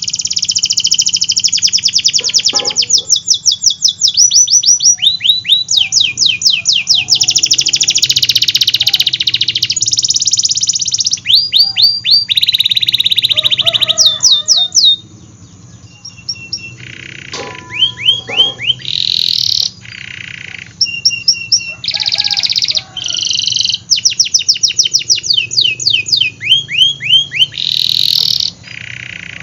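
Domestic canary singing loudly in rapid trills and rolls with quick rising and falling sweeps. It sings without a break for about the first fifteen seconds, then continues in shorter phrases separated by brief pauses.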